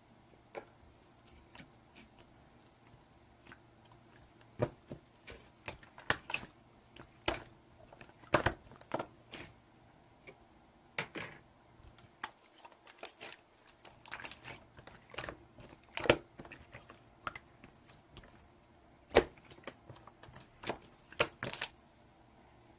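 Irregular light clicks and taps, sometimes singly and sometimes in quick clusters of two or three, over a quiet steady background.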